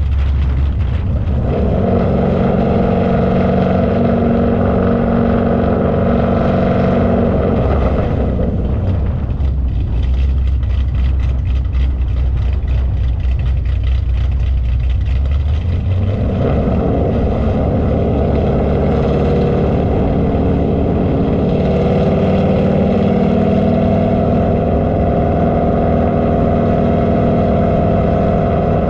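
A car engine running at a steady speed over a deep, constant rumble. A steady droning tone sets in about a second and a half in, drops away around eight seconds, and returns around sixteen seconds.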